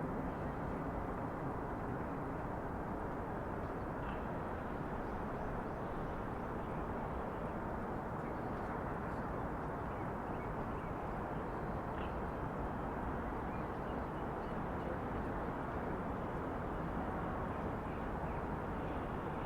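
Steady outdoor city ambience: an even hum of distant traffic, with faint short bird calls a few times.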